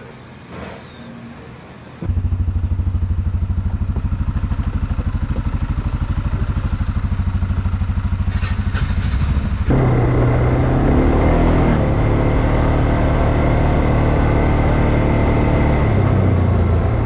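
ATV engine running close to the microphone, coming in abruptly about two seconds in with a fast, even pulsing. Near the middle it turns louder and rougher, and its pitch steps up and down near the end.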